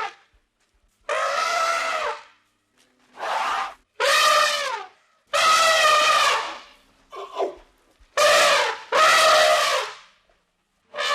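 An animal giving a series of about seven loud, pitched, trumpet-like calls, each half a second to a second and a half long, separated by short pauses; several drop in pitch at their ends.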